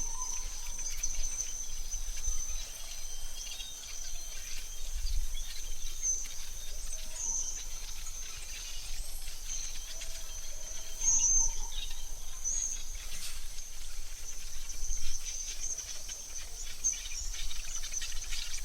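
Forest ambience: a steady high-pitched insect trill with scattered short bird chirps and a few brief whistled notes.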